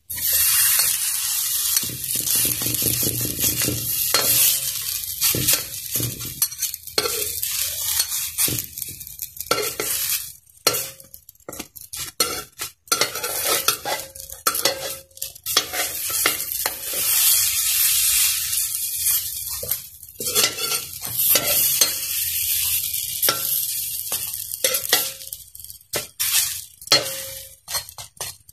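Spoonfuls of bread dough sizzling in a hot metal wok, with steady frying hiss. Metal spoons scrape and clink against the pan as the patties are dropped in and turned.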